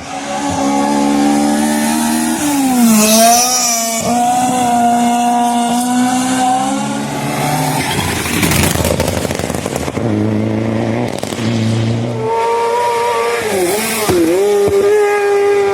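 Hillclimb race car engine running hard, its pitch dipping and climbing again about three seconds in and again near the end, with a noisy rush in the middle.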